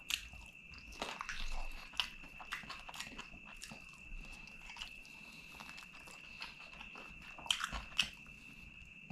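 Close-up chewing and biting into a curried chicken drumstick eaten by hand, full of short wet mouth clicks and smacks, with a couple of louder bites near the end. A faint steady high-pitched tone runs underneath.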